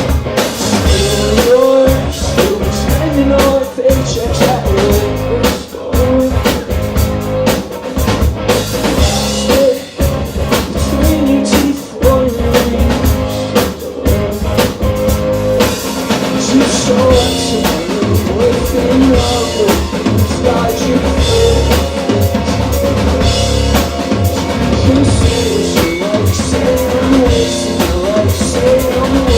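Live rock band playing an instrumental passage, the drum kit prominent with snare and bass drum hits under electric guitars and bass.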